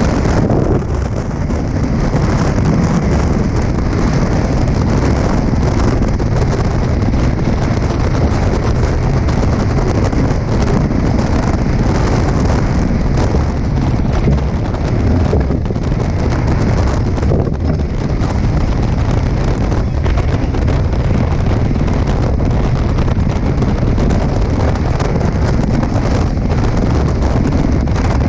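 Strong wind buffeting an action camera's microphone on a Tornado catamaran sailing fast, with the rush and spray of water along the hulls, a loud, steady roar of noise heaviest in the lows.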